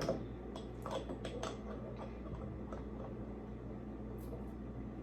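Faint, scattered clicks and scrapes of fingers working at the pull tab of a soda can that is hard to open.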